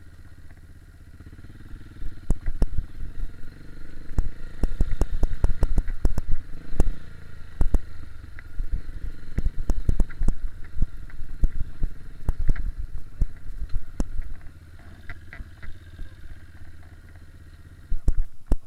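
KTM 250 EXC-F single-cylinder four-stroke dirt bike engine running under throttle on a rough trail, with many sharp knocks and clattering from the bike over rocks and roots. It is quieter for about the first two seconds, then pulls harder, and eases off again near the end.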